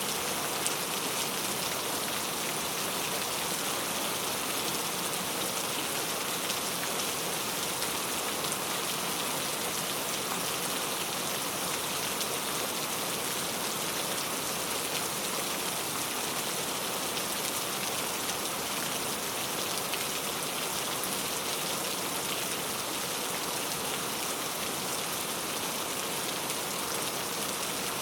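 Steady rain falling and pattering on surfaces, an even hiss of many fine drops with no change in intensity.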